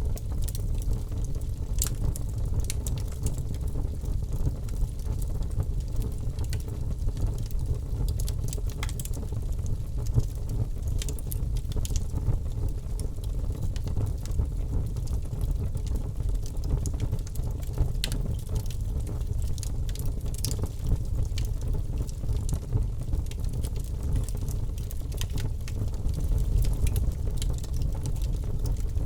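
Campfire burning, with frequent irregular sharp crackles and pops over a steady low rumble.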